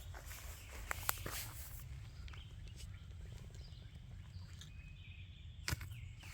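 Quiet woodland ambience with faint bird calls, a steady low rumble, and a few short sharp crunches about a second in and once near the end.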